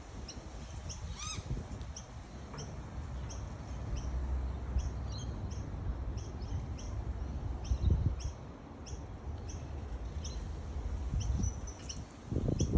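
Small birds chirping: a quick series of short, high, repeated chirps, with one louder rising call about a second in, over a low rumble.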